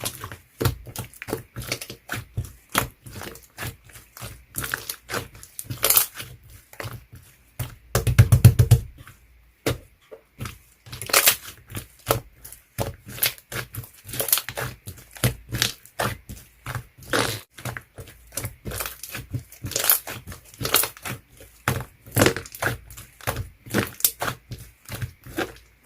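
Clear slime being squeezed and pressed by hand, making a steady run of small sticky pops and clicks, with a louder, denser crackle about eight seconds in.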